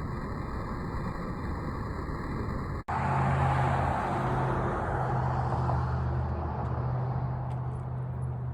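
Steady rushing noise that cuts off abruptly about three seconds in, followed by a steady low drone like a motor vehicle running, with rushing noise on top that slowly fades.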